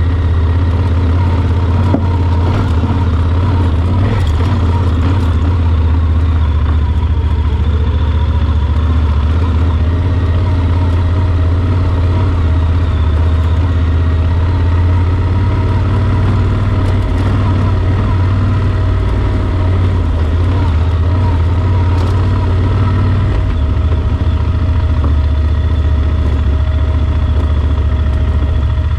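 Yamaha Super Ténéré XT1200's parallel-twin engine running steadily as the motorcycle is ridden, a constant deep drone with no break.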